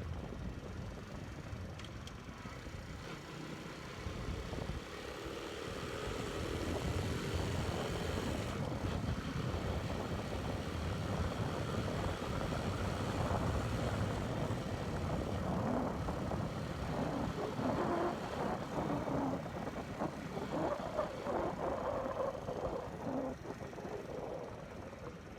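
Forte Alpha 125 cc motorcycle riding along, its engine running under the rush of wind and road noise. The engine note rises and falls through the second half.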